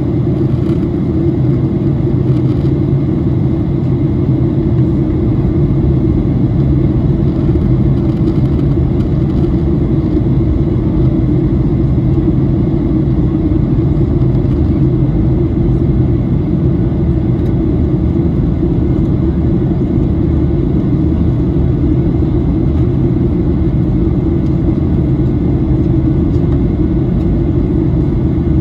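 Steady cabin roar inside a Boeing 737-800 in flight: the CFM56 engines and the airflow over the fuselage making a deep, even rumble with a low hum, heard from a window seat.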